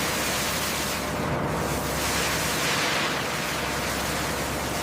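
Steady rushing noise with no distinct events, swelling gently a couple of times.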